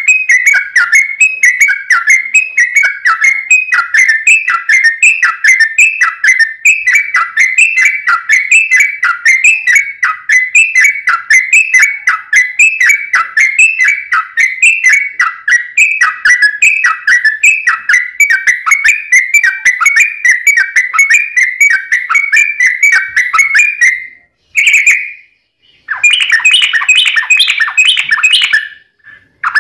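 Yellow-vented bulbul (trucukan) song: a long, unbroken run of quick, bubbly repeated notes, played as a lure to set other bulbuls singing. It breaks off near the end, then gives a short burst and a denser, harsher stretch before another brief gap.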